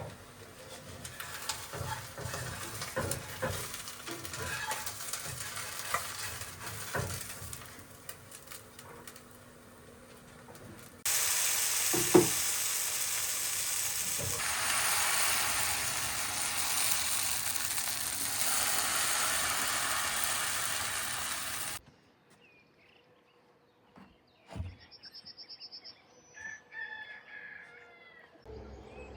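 Light clicks and knocks of kitchen work, then food sizzling in a frying pan, a loud steady hiss for about ten seconds that cuts off suddenly. Near the end, birds are calling, a rooster among them.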